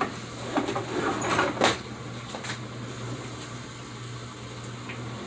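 Kitchen handling sounds: a few knocks and clatters, like a cupboard or cookware being moved, in the first couple of seconds. A steady low hum runs underneath throughout.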